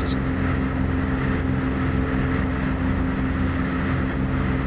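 Van's RV-10 light aircraft's piston engine and propeller running steadily at climb power just after takeoff: an even drone with a hum of several fixed pitches.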